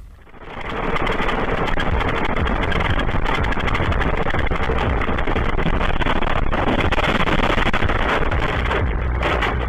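Loud, steady rushing noise of a moving vehicle with a deep rumble, setting in within the first second.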